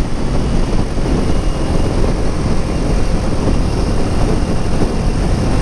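Kawasaki Ninja 400's parallel-twin engine running steadily at highway cruising speed, mixed with the rumble of wind rushing past the rider.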